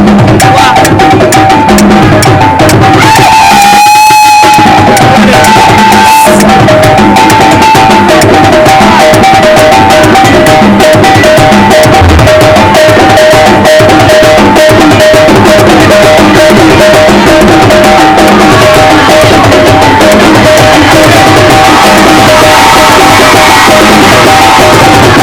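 Loud drumming music: dense, fast drum strokes with two steady high tones repeating above them. About four seconds in, a sliding tone with overtones rises over the drums.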